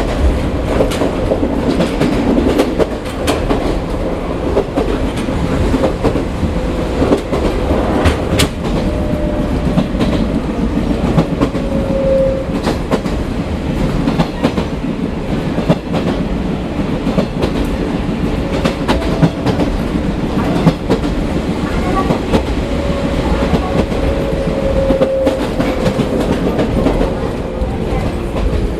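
Chichibu Railway 1000 series electric train (the ex-JNR 101 series) running along the line: a steady rumble of wheels on rails with irregular clicks over the rail joints, and a faint whine that comes and goes and falls slightly near the end.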